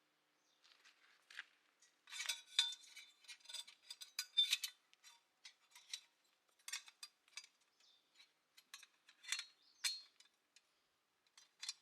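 Light metal clinking and clattering, a string of short sharp knocks with some brief ringing, as of metal camp gear or cookware being handled. It is busiest about two to five seconds in, with further scattered clinks later on.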